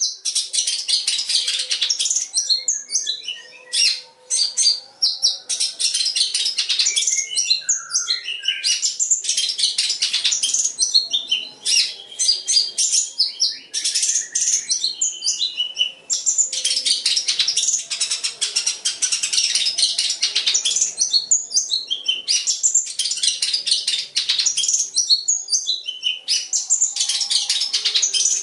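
Long-tailed shrike (cendet) singing a fast, nearly continuous chattering song of quick trills, chirps and short whistles. The song is filled with mimicked calls of other birds, such as the white-shouldered triller (kapas tembak) and the sparrow (gereja).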